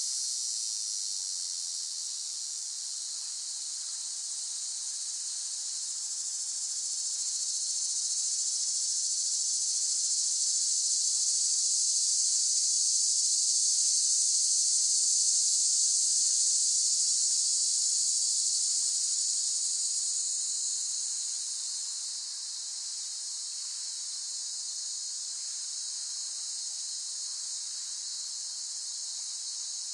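Cicadas buzzing in a steady, high, continuous drone. It swells louder through the first half and eases back down a little after two-thirds of the way through.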